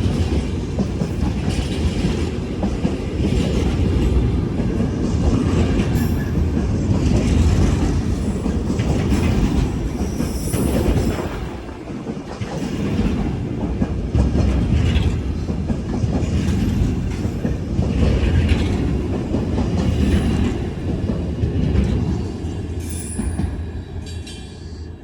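A train running through the station: a steady heavy rumble of wheels on rails with a rhythmic clickety-clack over the rail joints and some wheel squeal, easing briefly about halfway through and fading near the end.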